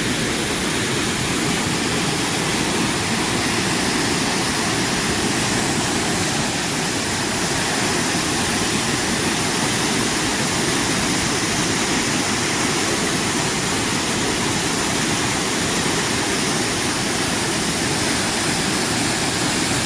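Waterfall: water pouring over the falls in a loud, steady rush with no change throughout.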